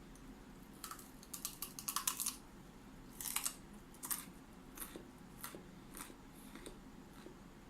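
Close-up crunching of raw broccoli being bitten and chewed: a burst of crisp crunches, then two more bites, fading into single softer chewing clicks about every half-second.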